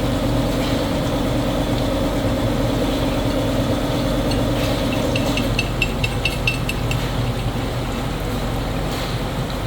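Factory machinery running with a steady hum. About five seconds in, a run of light, quick ticks, about five a second, lasts for roughly two seconds.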